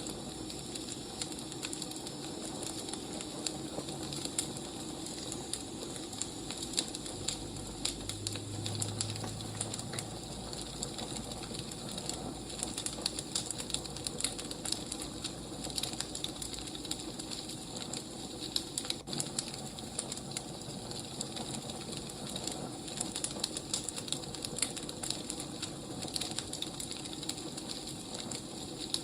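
Firewood burning, with a constant run of small crackles and pops over a soft hiss. A short low hum comes in about eight seconds in.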